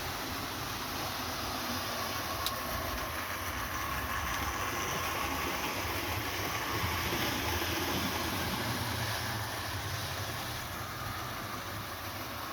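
Hornby OO gauge model train running on its track: a steady electric-motor whir and the rumble of small wheels on the rails, with a single click about two and a half seconds in.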